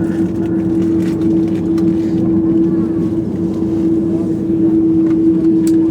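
Airbus A330-200 cabin noise: the jet engines' steady drone with a strong, constant hum, over a low rumble and a few light rattles.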